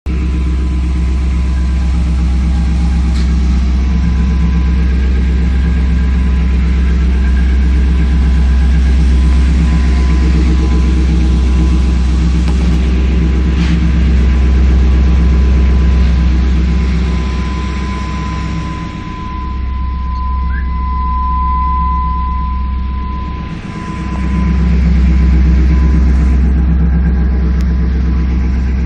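355 small-block Chevy V8 running at a steady idle with a loud, deep rumble through a Flowmaster single exhaust with a Flowmaster 40 muffler. The level dips briefly twice about two-thirds of the way through.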